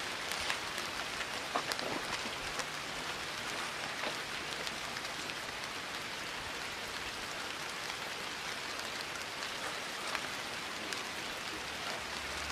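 Steady rain falling, an even hiss dotted with scattered single drops ticking.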